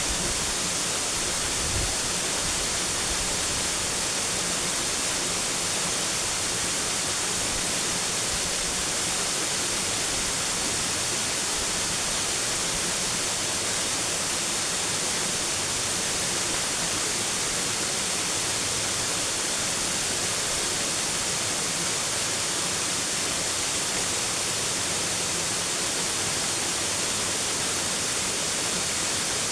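Steady rushing of falling water, an even hiss that never changes in level, with a soft knock about two seconds in.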